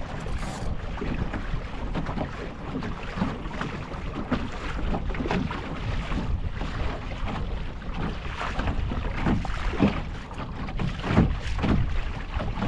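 Water lapping and slapping irregularly against the hull of a small wooden Mirror sailing dinghy under way, with wind buffeting the microphone.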